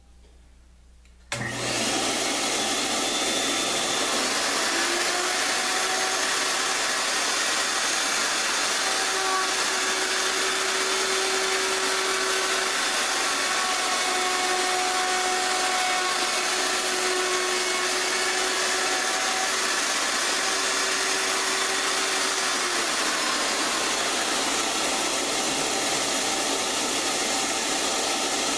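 An electric motor switched on about a second in, then running steadily with a loud rushing noise and a faint hum that wavers slightly in pitch.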